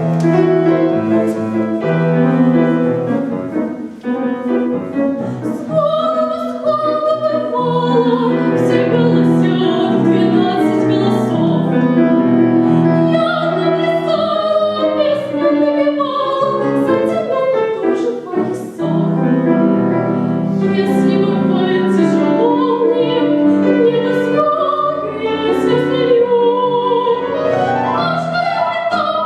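Female vocalist singing in a classical, operatic style with vibrato, accompanied by piano.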